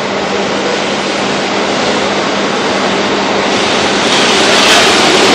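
Kintetsu electric train approaching along an underground platform. Its running noise echoes off the tunnel and grows steadily louder, getting brighter from about three and a half seconds in. A steady low hum runs underneath.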